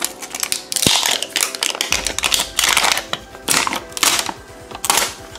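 The plastic wrapper of a toy surprise ball crackles and crinkles in clusters as it is peeled off by hand, over background music.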